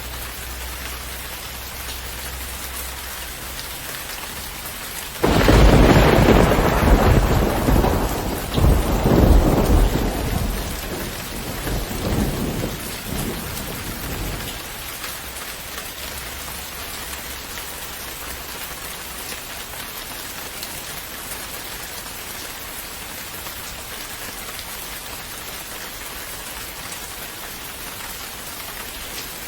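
Steady rain falling, with one clap of thunder breaking out suddenly about five seconds in and rumbling away over the next several seconds.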